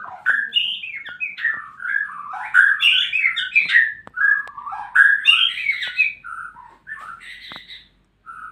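White-rumped shama (murai batu) singing a fast, varied string of whistled phrases mixed with sharp clicks, with a brief pause near the end.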